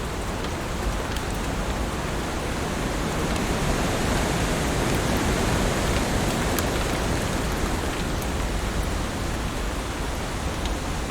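Heavy rain falling in a steady, dense hiss, with scattered sharp drip ticks and a slight swell in loudness midway.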